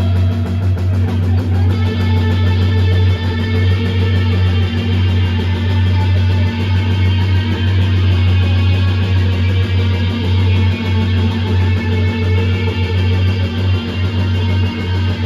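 Loud live rock band playing without vocals: electric guitar and bass, with a low bass note held steady throughout.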